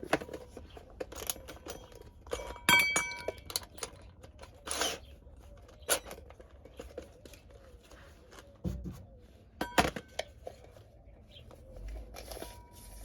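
Scattered clicks, knocks and metallic clinks from tools and hardware being handled, with a short ringing clink about three seconds in.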